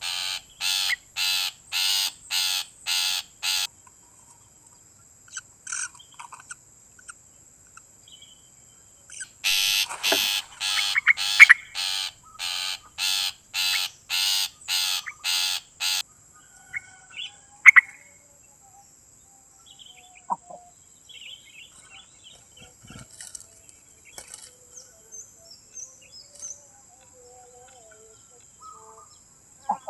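A bird giving a series of harsh, evenly repeated call notes, about two a second, in two bouts of several seconds each. Scattered short chirps from other birds fill the gaps between the bouts.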